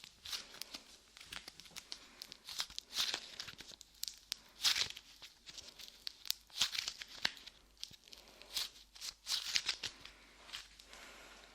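Light clay squished and pulled against a microphone's ears, making sticky crackling and tearing sounds in irregular bursts.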